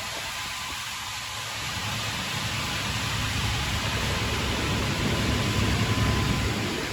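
Supercharged 6.2 L V8 of a pickup truck running with a low rumble that builds from about two seconds in and drops off near the end, under a steady hiss of rushing air.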